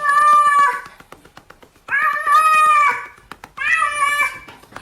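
A cat meowing loudly in long, drawn-out calls: three in a row, each about a second long or a little less, the last one shorter.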